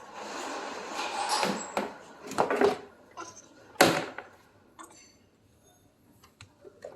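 Rustling, then a series of sharp knocks and clatters, the loudest about four seconds in, followed by a few faint ticks.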